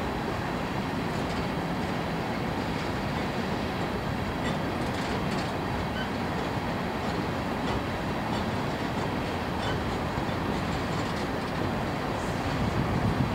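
Empty coal train's hopper cars rolling past: a steady rumble of steel wheels on rail, with a few faint clicks scattered through.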